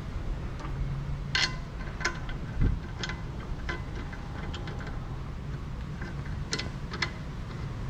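Scattered light clicks and taps of hand tools and metal parts being handled, six or so spread unevenly, with one dull thump about two and a half seconds in, over a steady low hum.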